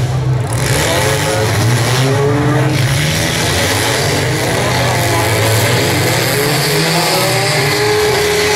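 Several demolition derby cars' engines running and revving together, many overlapping pitches rising and falling.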